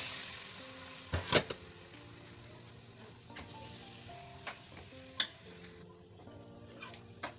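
Raw chicken pieces going into hot ghee in an aluminium kadai: a burst of sizzling that fades over the next few seconds. A steel ladle stirs the pieces and knocks sharply against the pan several times, loudest about a second in. Soft background music plays underneath.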